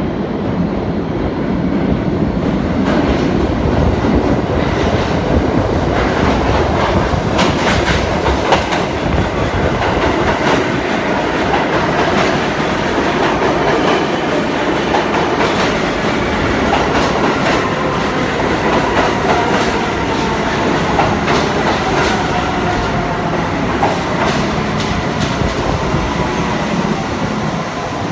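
New York City subway train running through the station, its wheels clattering over the rail joints. Faint whining tones glide in pitch about halfway through.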